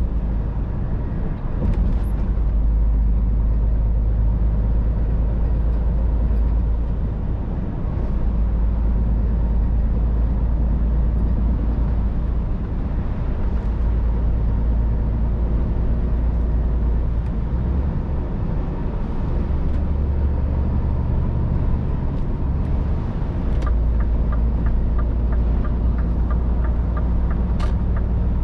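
Scania R500's V8 diesel engine running steadily while the truck is driven, heard from inside the cab. Near the end comes a run of regular clicks, about three a second.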